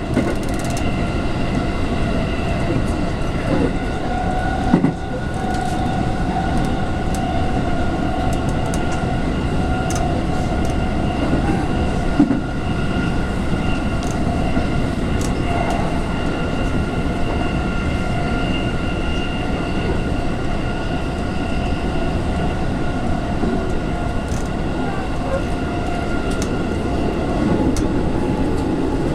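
Interior running noise of a JR West 221 series electric train cruising at steady speed: a constant whine over a steady rumble of wheels on rail. There are a couple of short knocks, about 5 and 12 seconds in.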